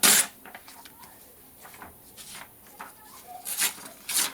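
Paper rustling as a page is handled: a loud, short rustle at the start, then a few shorter rustles near the end.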